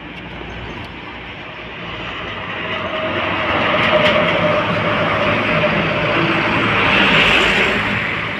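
A heavy road vehicle passing close: engine and road noise that swells from about two seconds in and stays loud until near the end.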